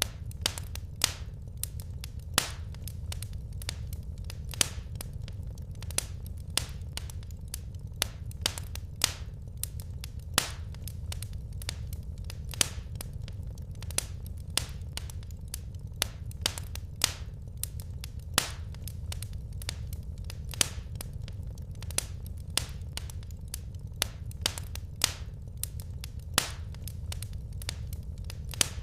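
Wood fire burning in a fireplace: irregular sharp crackles and pops, one to three a second, some much louder than others, over a steady low rumble.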